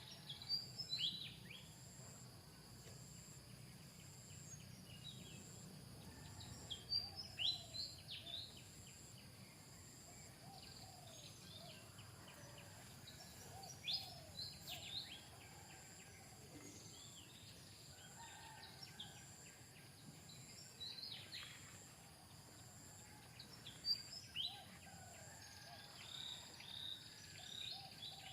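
Outdoor ambience: clusters of short, high bird chirps every few seconds, over a steady insect drone that pulses evenly and a low background hum.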